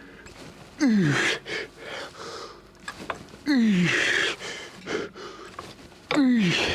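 A man's strained groans with heavy exhaled breath, one on each hard rep of a set of lateral raises taken to failure. There are three groans about two and a half seconds apart, each falling in pitch.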